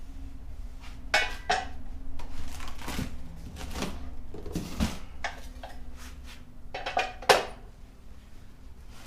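Steel parts of a motorcycle lift jack being handled and set down: irregular metal clanks and clinks, several knocks over the first five seconds and the loudest one about seven seconds in.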